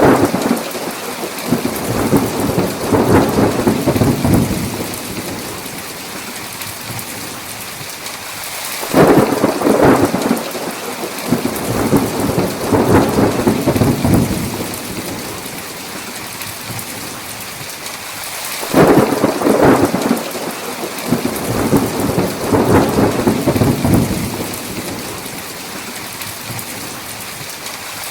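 Heavy, steady rain with rolling thunder. One rumble dies away in the first few seconds. Fresh peals roll in about a third of the way through and again about two-thirds through, each rumbling on for several seconds over the constant rain.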